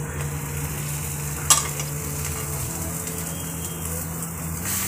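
Chicken salami slices sizzling steadily in butter in a nonstick frying pan while they are turned with a spatula, with one sharp clack of the spatula against the pan about a second and a half in. A low steady hum runs underneath.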